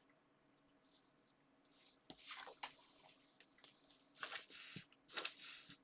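Paper and card being handled, rustling and sliding against each other in a few short bursts from about two seconds in.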